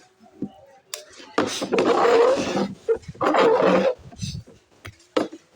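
Two loud, rough shouts from a person, the first about a second and a half in and lasting about a second, the second shortly after and a little shorter.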